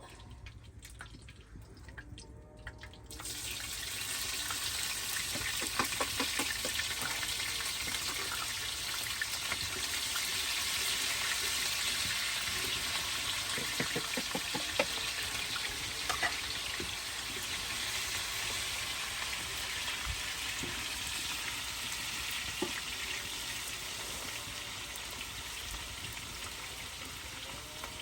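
Food hitting hot fat and sizzling, starting suddenly about three seconds in and then frying steadily with scattered pops and crackles.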